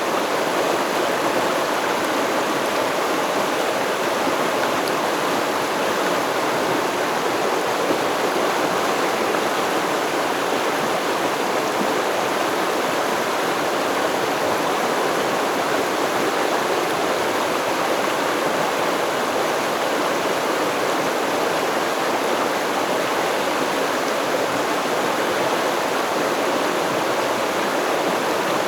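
Stream water flowing steadily over rocks: a constant rushing babble with no let-up.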